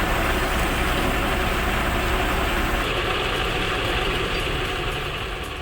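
Heavy machine's engine running steadily, easing off slightly near the end.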